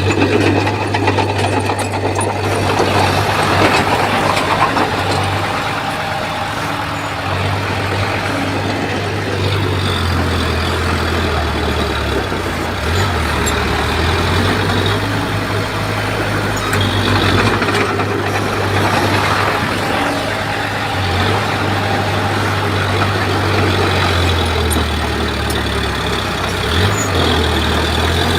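Bulldozer's diesel engine running steadily, its low drone stepping up and down in pitch now and then.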